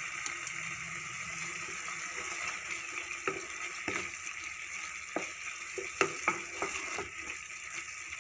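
Tomato, onion and garlic masala sizzling in mustard oil in a pan as a spatula stirs in the ground spices. There is a steady hiss, with several sharp clicks and scrapes of the spatula against the pan from about three seconds in.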